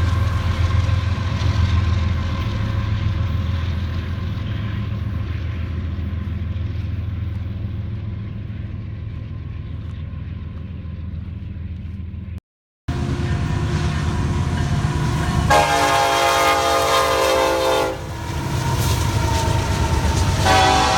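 Low rumble of a passing freight train slowly fading, then after a cut a diesel locomotive running and sounding its air horn: one long chord blast of about two and a half seconds, and another starting near the end.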